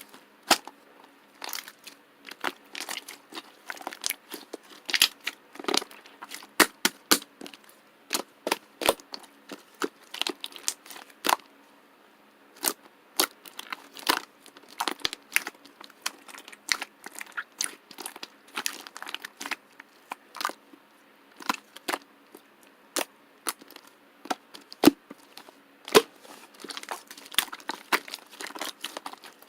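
Chewy white marbled slime being kneaded and stretched by hand, giving irregular sharp pops and clicks with short pauses between handfuls.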